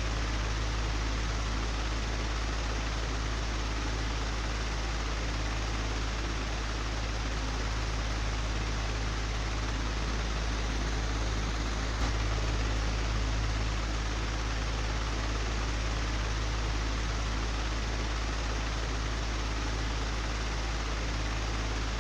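Old, broken electric fan running steadily: a low hum under an even rushing hiss of air, with one faint tick about twelve seconds in.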